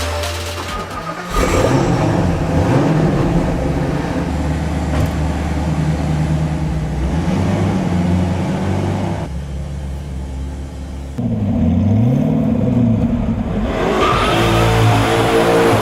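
Sports car engine revving, its pitch rising and falling several times.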